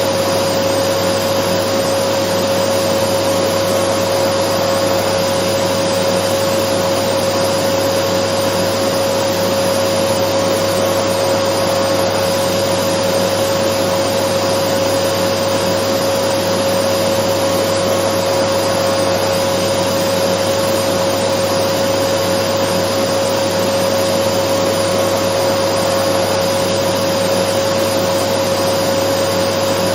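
Dyson vacuum cleaner running steadily: an even rushing noise with a constant hum on top, unchanging throughout.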